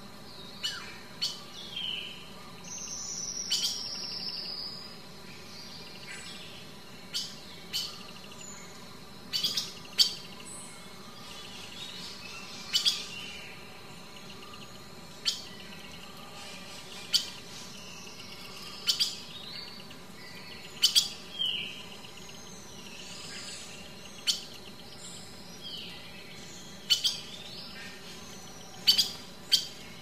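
Wild birds calling: short, sharp chirps every second or two, with a falling trill about three seconds in.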